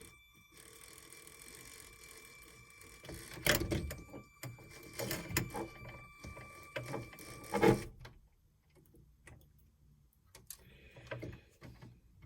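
Lego Power Functions motor running with a steady whine while plastic parts knock and clatter. The motor stops suddenly with a loud knock about eight seconds in, and only a few faint clicks follow.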